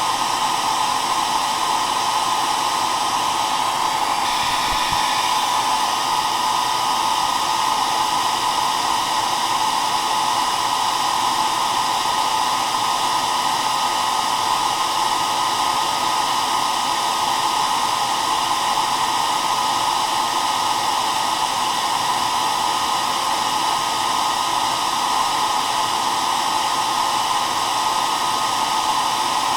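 Hair dryer running steadily, an even rushing blow with its strongest sound around the middle pitches and a faint steady hum within it.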